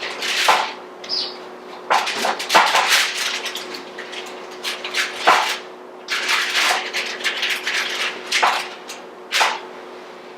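Spatula scraping and knocking on a parchment-lined baking pan as baked beet-and-bean burger patties are flipped, in a series of irregular scrapes and clacks. A steady low hum runs underneath.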